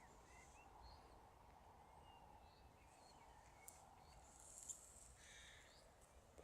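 Faint distant birdsong: scattered short, high chirps and trills of small birds, a little louder about five seconds in, over quiet open-air background.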